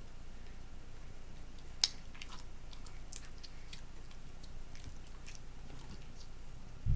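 Sticky slime being squeezed and stretched by hand, making scattered small wet clicks and pops, with one sharper pop about two seconds in.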